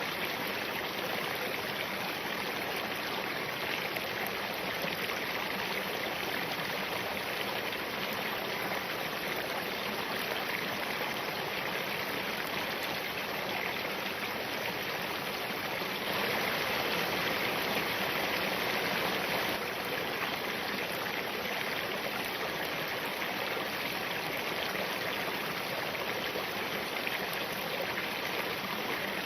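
Spring-fed mountain stream flowing over rocks, a steady rush of running water that swells slightly for a few seconds past the middle.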